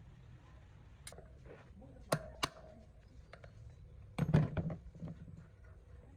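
Scattered clicks and knocks of metal parts and hand tools being handled on a workbench. A light strike about two seconds in leaves a short metallic ring, and a louder cluster of knocks comes a little past four seconds.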